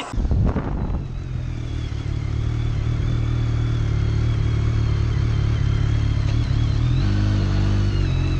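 Motorcycle engine running steadily, with a thin high whine above it; the engine note steps up slightly about seven seconds in.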